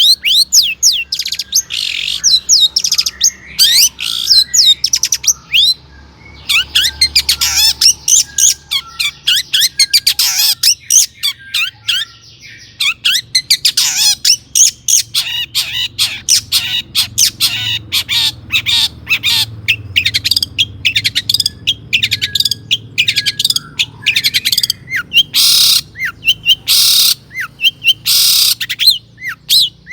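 Long-tailed shrike singing a fast, varied song of rapid chirps and quick whistled glides, full of mimicked notes of other birds. It pauses briefly twice and has harsh, scratchy notes near the end.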